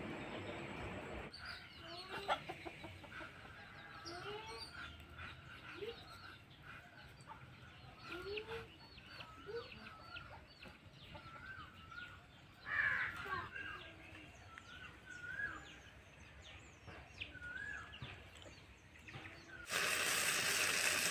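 Chickens clucking and birds calling, many short calls that rise and fall in pitch, one louder call in the middle. A steady hiss cuts off about a second in and comes back abruptly near the end.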